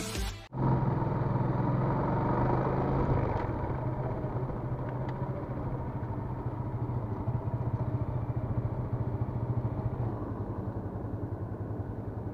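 Yamaha LC135's single-cylinder four-stroke engine running steadily at low speed, loudest in the first couple of seconds, then settling into an even, pulsing idle near the end as the bike comes to a stop.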